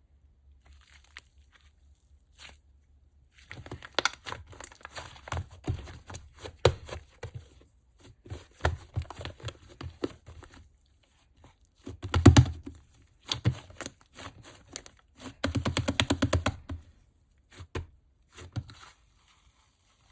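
Slime being squeezed, stretched and poked by hand, giving bunches of rapid crackling and popping clicks with short pauses between them.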